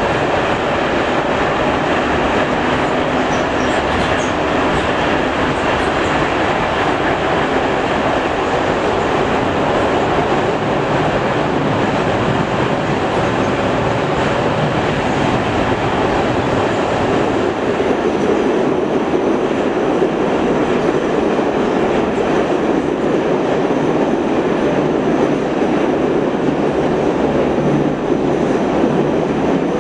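Metro train running through a tunnel, heard from inside the carriage: a steady, loud rumble and rattle of wheels on rails. Its tone shifts slightly about two-thirds of the way through.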